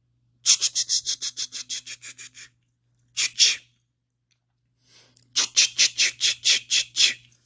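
A person doing imitation bird calls: runs of quick, high squeaky chirps, about eight a second, then two louder chirps, then another run near the end.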